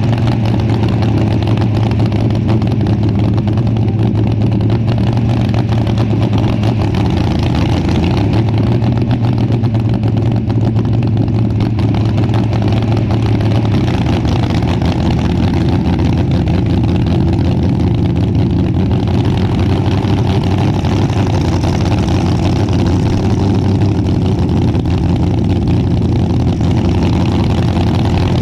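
Engine running steadily at a loud, even idle, with small shifts in pitch about eight and fourteen seconds in.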